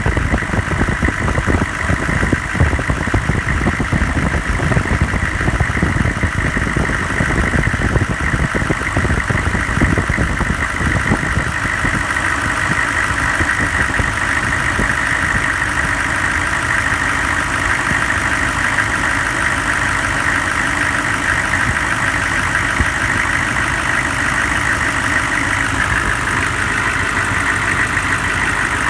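Engine idling after a cold start, uneven and knocking at first, then settling into a steadier idle about twelve seconds in.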